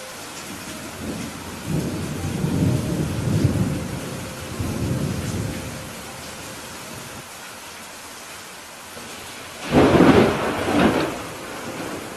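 Steady rain falling during a thunderstorm, with a low rumble of thunder swelling and fading in the first half. Near the end a sudden, sharper thunderclap cracks twice and is the loudest sound.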